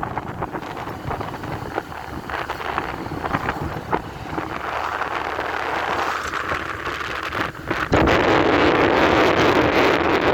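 Wind blowing on the microphone of a moving motorcycle, with the bike running underneath. The wind noise jumps louder about eight seconds in.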